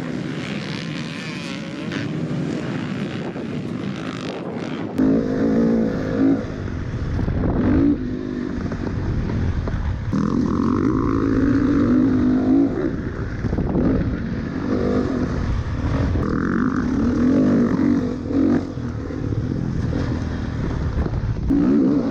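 Dirt bike engine revving hard and dropping back again and again as the throttle opens and closes. Before that, the first few seconds hold a steadier, less distinct engine sound.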